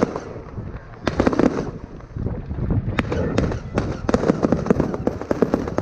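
Aerial fireworks bursting and crackling: a cluster of bangs about a second in, a single sharp crack about three seconds in, then a long run of rapid crackles.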